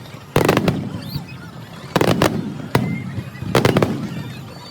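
Aerial fireworks bursting: four loud bangs in under four seconds, each trailing off in a rumble and crackle.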